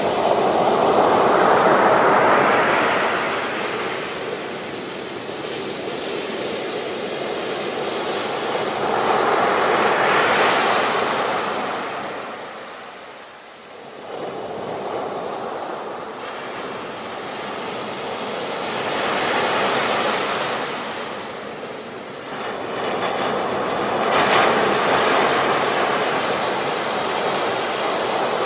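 Ocean waves breaking on a beach and washing back, a rushing surge that swells and fades about four times, with a short lull about halfway through.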